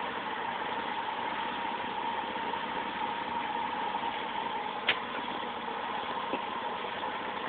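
Vauxhall C30SE 3.0-litre 24-valve straight-six idling steadily at about 600 rpm, fully warm after twenty minutes' running, with a steady hum. A single short click about five seconds in.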